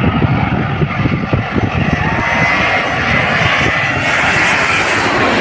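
Airliner passing low overhead on its landing approach: a loud, steady engine roar with a faint whine.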